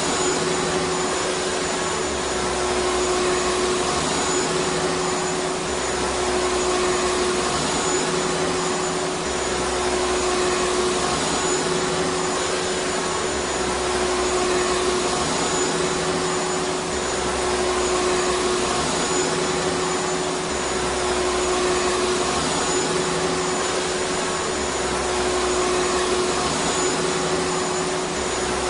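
Vacuum cleaner running steadily: a constant motor whine with a fixed pitch over the rush of air, swelling slightly every couple of seconds.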